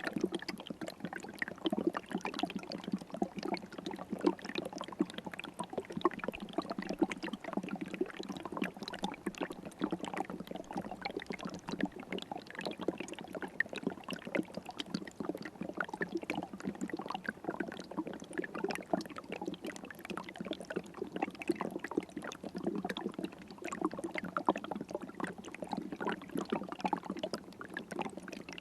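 River water running steadily, with a dense patter of small splashes that does not change.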